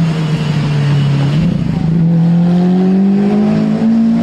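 Lamborghini supercar engine accelerating. A loud drone dips slightly about a second in, then climbs steadily in pitch.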